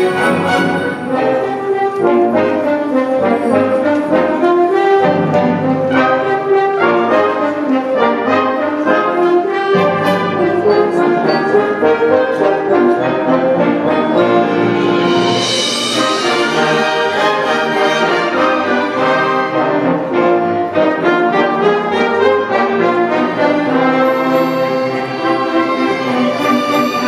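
Orchestra playing a Christmas arrangement, the brass section (trombones, horns and trumpets) carrying the melody over sustained chords. A bright swell of high noise builds and peaks about halfway through.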